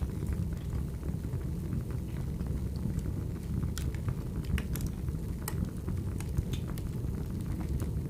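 Burning firewood: a steady low rumble of the fire with scattered sharp crackles and pops from the wood.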